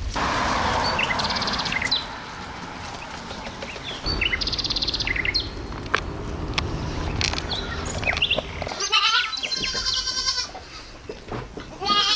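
Goat bleating: one long wavering call about nine seconds in, with another starting near the end. Small birds chirp throughout, and a steady noise fills the first two seconds.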